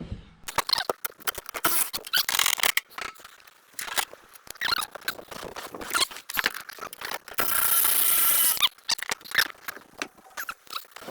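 Rusted, crusty bolts on an Allis-Chalmers tractor's rear wheel hub squeaking and squealing as they are worked loose with a wrench, with scattered clicks and scrapes of the tool on the metal. About three-quarters of the way in there is a harsh, steady rush lasting a little over a second.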